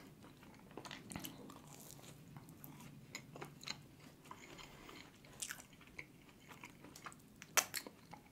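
Quiet chewing of a caramel popcorn donut, with wet mouth clicks and a few sharp crunches, the loudest late on.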